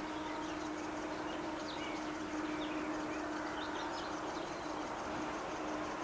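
Small birds chirping in short, quick calls that glide up and down in pitch, over a steady low hum.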